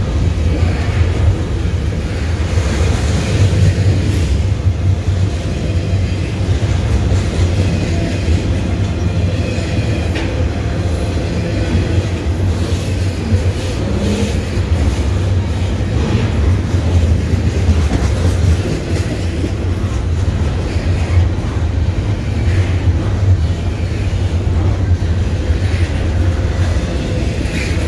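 Double-stack intermodal container train rolling past close by: a steady, loud low rumble of steel wheels on the rails, with the rattle of the freight cars.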